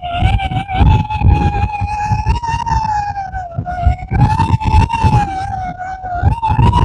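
Very strong wind gusting across the microphone in heavy, uneven rumbles, with a steady high whistle that wavers slowly up and down in pitch.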